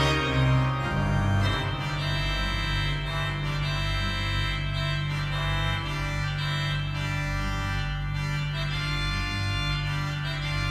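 Organ music: slow, sustained chords held over a steady bass, changing every few seconds.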